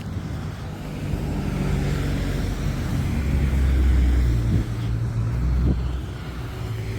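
A motor vehicle's engine running close by, growing louder toward the middle and then easing off, as if the vehicle is passing.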